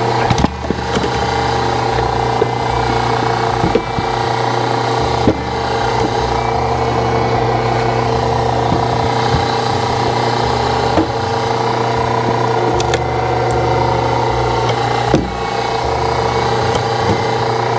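Hydraulic log splitter's power unit running steadily under load while the ram presses into a tough log that is barely splitting, with a few sharp cracks and knocks from the wood.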